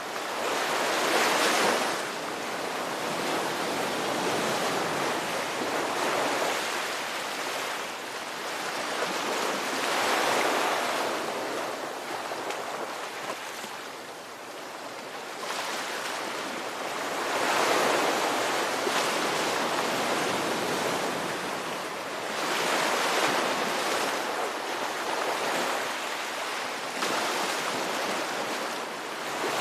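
Ocean waves breaking and washing on a shore, a steady rush of surf that swells with each wave every few seconds.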